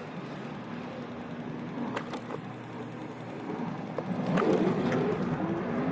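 A car driving on a snowy road, with a steady engine and road hum and a few sharp clicks. The hum grows louder about four seconds in.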